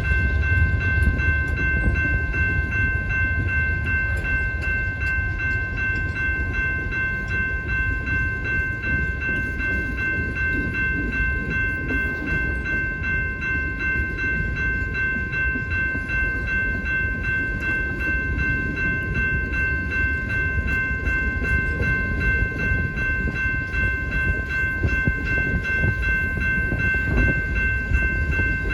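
A train rolling past at close range: a steady loud rumble with continuous wheel clatter over the rails. A set of steady high tones rings unbroken over it throughout.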